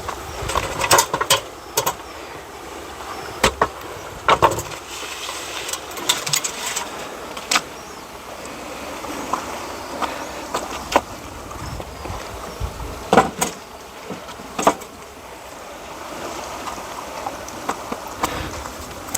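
Pieces of firewood being picked up and handled: a string of irregular sharp knocks and cracks, loudest near the start, around four seconds in and again around thirteen to fifteen seconds, over a steady rushing background.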